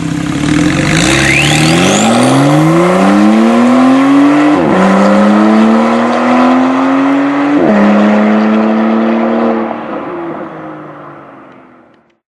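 Porsche 991.2 911 flat-six exhaust under hard acceleration, the engine note rising through the revs with two quick upshifts, each dropping the pitch suddenly. A faint rising whistle comes early on the first pull, and the sound fades out near the end.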